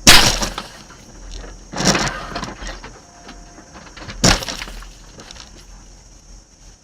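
Car crash impacts: a loud smash right at the start, then two more crashing hits about two and four seconds in, each trailing off in a brief scatter of rattling debris.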